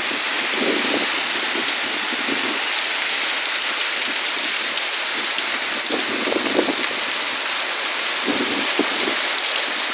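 Heavy rain pouring down in a steady, even downpour during a rainstorm.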